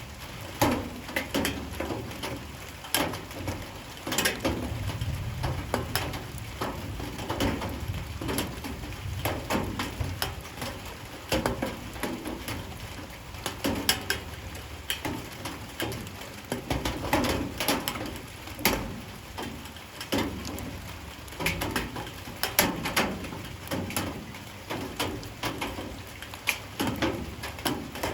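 Light rain falling, with drops tapping sharply and irregularly on nearby surfaces over a steady wash of rain.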